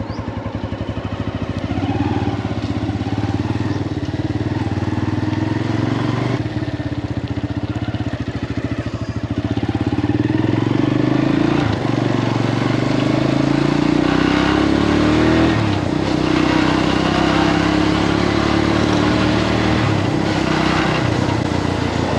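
Motorbike engine running while being ridden. Its pitch climbs as it speeds up and drops back sharply twice near the middle, as when the throttle is eased or a gear changes.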